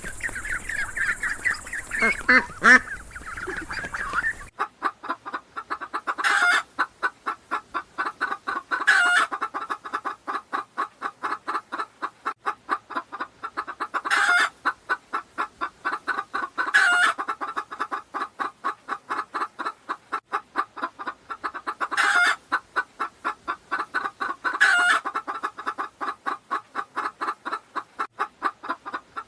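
Domestic fowl giving a fast, even series of short calls, several a second, with a louder, harsher call every two to three seconds. The first few seconds are a different recording, with a hiss and scattered calls, that cuts off about four seconds in.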